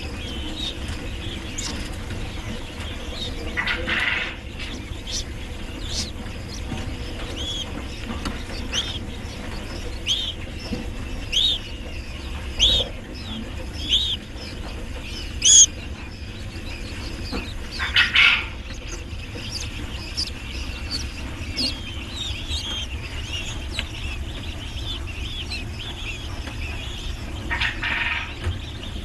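Birds chirping: short high chirps every second or so, with three louder, longer calls spread through, over a steady low hum.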